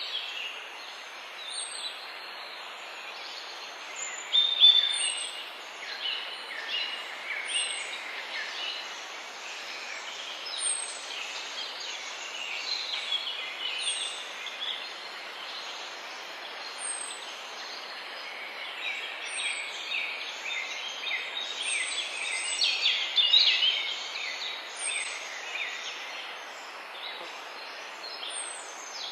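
A chorus of songbirds: dense chirps and short trilled phrases over a steady hiss, busiest about five seconds in and again near the end, with a thin, high, falling note repeating every second or two.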